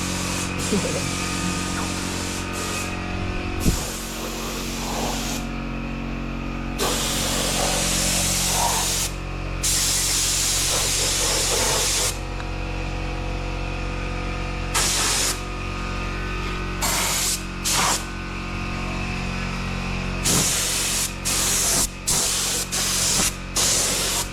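Paint spraying in repeated bursts, a loud hiss that starts and stops abruptly: two long sprays near the middle, a few short squirts, then a run of sprays near the end.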